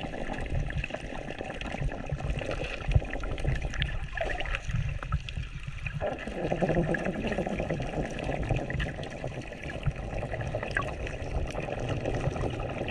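Water running and trickling in a steady noisy stream, which thins for about two seconds near the middle.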